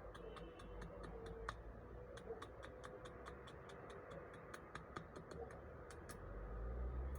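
Faint, regular ticking, about five quick ticks a second, over a low rumble.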